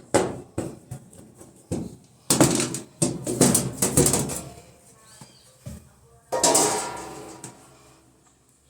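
Irregular knocks and clatter of things being handled, with two longer rustling, clattering stretches, the louder one a little over two seconds in and a shorter one past the six-second mark.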